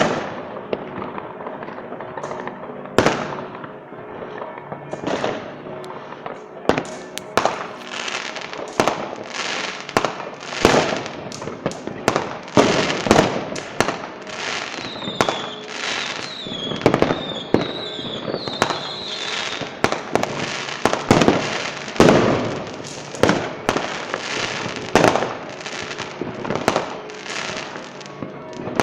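Fireworks display: aerial shells bursting in a rapid, irregular barrage of sharp bangs, several a second, with a warbling whistle between about fifteen and twenty seconds in.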